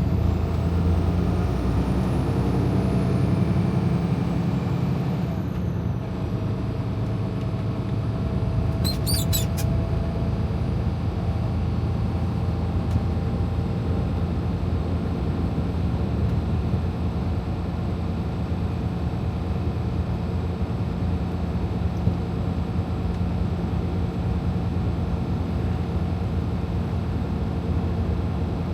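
Freightliner Cascadia semi-truck driving, heard from inside the cab: a steady diesel engine drone with road noise. About nine seconds in there is a brief cluster of high ticks.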